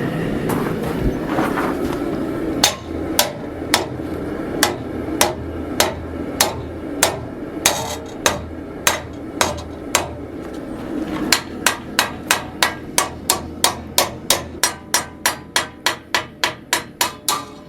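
Hand hammer blows on the steel D-guard stock, ringing sharply: a slow series of strikes about every half second, then a quicker run of about three blows a second near the end. A steady low rushing noise runs underneath.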